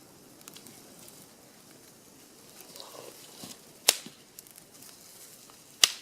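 Small campfire of damp wood burning with faint crackling and two sharp pops, about four and six seconds in.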